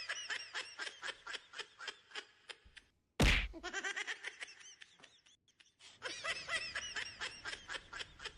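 Rapid, high-pitched laughter in quick repeated bursts of about five a second, coming in three runs. A sudden loud thump about three seconds in breaks it.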